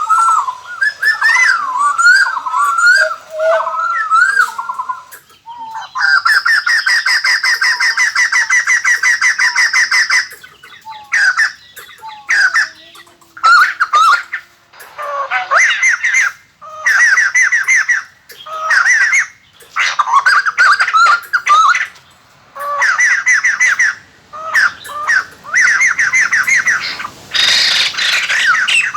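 White-crested laughingthrush calling: varied whistled notes for the first few seconds, then a long, fast, rattling chatter, then a string of short chattering bursts with brief pauses between them.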